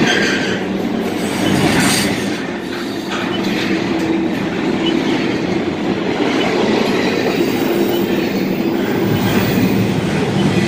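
Double-stack intermodal well cars rolling past close by: a steady rumble of steel wheels on rail, with a few sharp clacks in the first few seconds.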